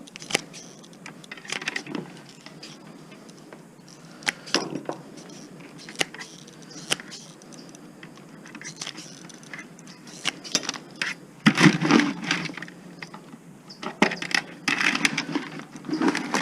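Scattered metal clicks, clinks and knocks from hand-dismantling a scrap appliance: a wire harness being cut and parts worked loose to free the motor. Louder clattering comes about eleven and a half seconds in and again near the end.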